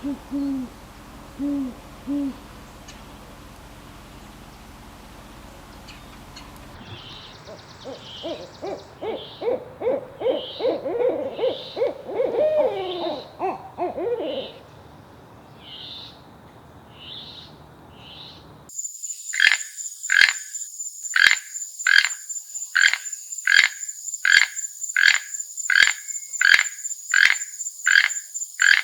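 An owl hoots three times in quick low notes. A stretch of wavering animal calls follows, both low and high. About two-thirds in it cuts to frogs croaking in a steady rhythm of about one call a second, over a steady high insect trill.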